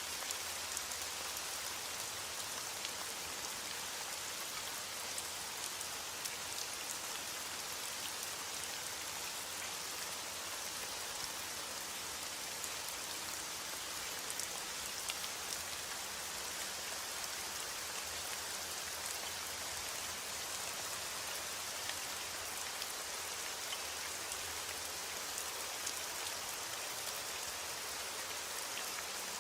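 Steady rain falling, an even hiss with faint scattered drops and no thunder.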